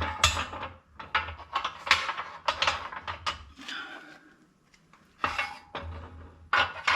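Metal parts and tools clinking and clattering as they are handled and set down, a run of sharp knocks with a brief lull about four seconds in, then more clatter near the end.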